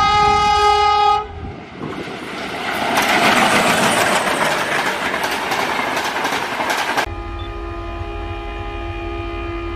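Diesel locomotive horn sounding for about a second, then a train passing at speed: coaches rushing by with rapid wheel clatter over the rail joints. After an abrupt change about seven seconds in, a second locomotive horn sounds steadily through to the end.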